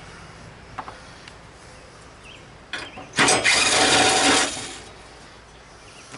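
A harsh rasping scrape from hand work on the mower hood, lasting over a second, about three seconds in. A few light clicks come before it.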